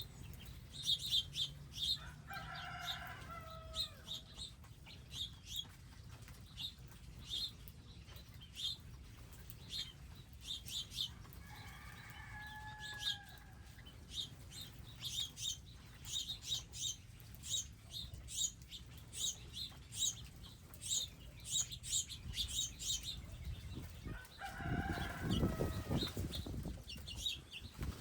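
Wild birds at a garden feeder: many short, high chirps keep coming, with a lower, harsher call twice. Near the end a louder, lower noise lasts about two seconds.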